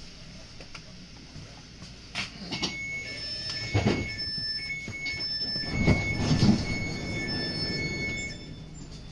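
S2 S-Bahn commuter train running on the track with a high metallic squeal from its running gear that comes and goes in short stretches. The rumble grows louder about two seconds in, with two heavy clunks near four and six seconds.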